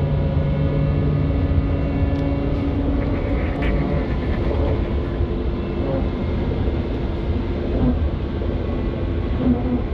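SVARZ-6235 trolleybus in motion, heard from inside: low road rumble under the steady whine of the electric traction drive. The whine's tones shift about four seconds in.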